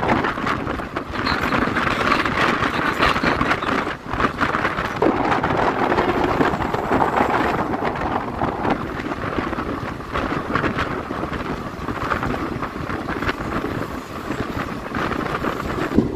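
Passenger train running on the move: a steady, loud rumble of wheels on the track mixed with wind noise, broken by irregular knocks.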